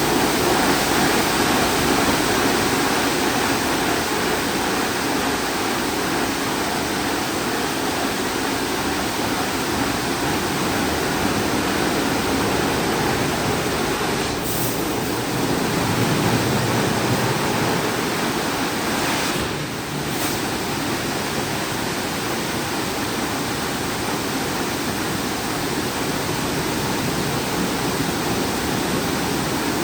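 Christ Vega C170 rollover car wash spraying water onto a car: a steady, loud rushing hiss that comes on suddenly, with brief shifts about 15 and 20 seconds in.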